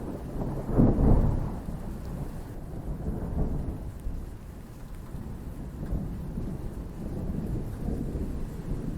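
Thunder rumbling over steady rain, with a louder roll of thunder about a second in that dies away into a low continuous rumble.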